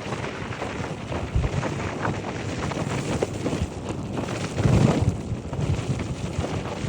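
Wind noise on a 2024 BMW i4 electric car: a steady rush with uneven low buffeting, swelling into a louder gust about five seconds in.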